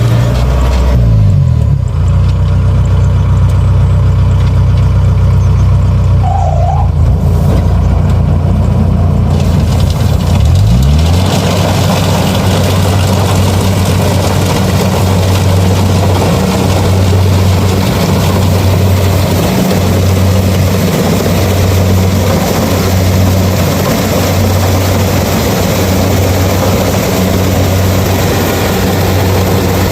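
Kubota DC70 combine harvester's diesel engine running loud, its note dipping briefly about a second in and again about ten seconds in. From about eleven seconds in a wide rushing clatter of the harvester's working machinery joins the engine and keeps on steadily.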